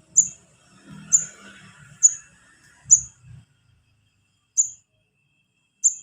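Juvenile wiceh (korlap) calling: short, very high chirps, six in all, about one a second with a longer gap near the middle. These are young birds' calls that draw in the parent birds.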